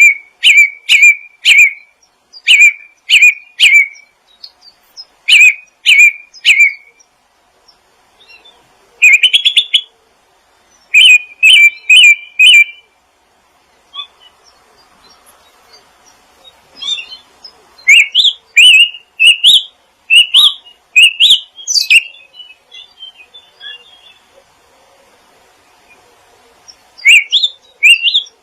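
Songbird chirping loudly in short, clear whistled notes, delivered in quick runs of four or five with pauses between runs. Around the middle a run of quick upward-sweeping notes.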